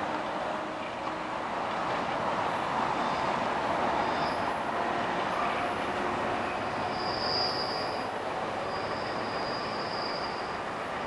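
NJ Transit commuter train, a Bombardier ALP-46A electric locomotive with Comet coaches, rolling away on a curve with a steady rumble of wheels on rail. High-pitched wheel squeal comes in briefly about four seconds in, and again in longer stretches in the second half.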